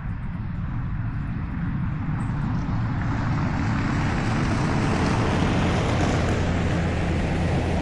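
Vehicle engine and road noise building steadily louder, with a low, steady engine hum settling in near the end.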